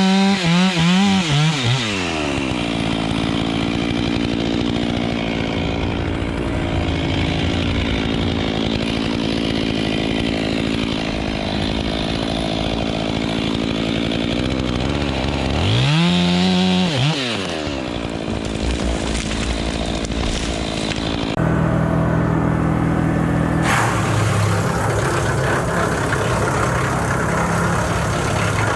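Two-stroke chainsaw briefly revved up and let back down to idle, once at the start and again about sixteen seconds in, idling steadily in between. About three quarters of the way through, the sound changes suddenly to a different steady engine running with a rougher noise over it.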